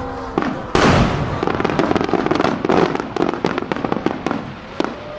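Fireworks bursting: a loud bang just under a second in, followed by a dense run of sharp crackling reports that thins out toward the end.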